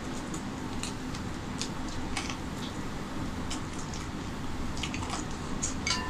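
Close-up eating sounds of a person eating rice and chicken curry by hand: wet chewing and lip-smacking clicks at an uneven pace, with a cluster of sharper clicks near the end. A steady low hum runs underneath.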